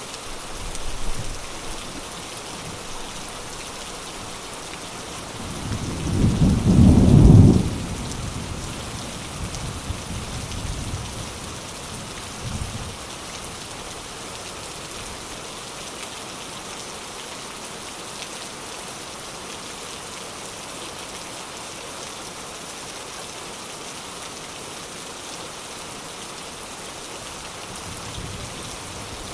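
Steady rain pouring, with a loud rumble of thunder about six seconds in and a few fainter rumbles after it.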